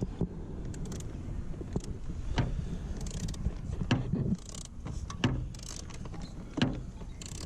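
Scattered clicks and light knocks of a small screwdriver and fingers working a screw loose in a BMW's plastic dash trim, over a steady low hum that drops a little about four seconds in.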